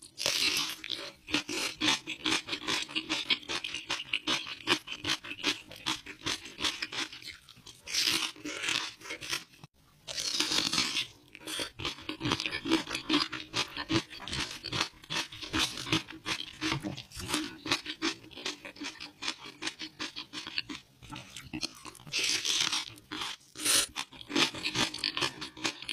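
Close-miked crunching and chewing of spicy green kimchi, a dense run of crisp crunches with a few longer, louder stretches.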